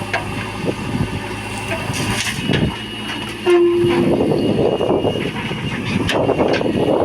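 Diesel engines of a backhoe loader and tipper trucks running, with scattered knocks and clanks. About three and a half seconds in there is a short horn blast.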